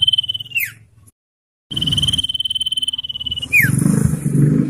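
Common iora giving its long trilled whistle twice, each a fast, level trill that ends in a quick falling slur, with a short dead-silent gap between them.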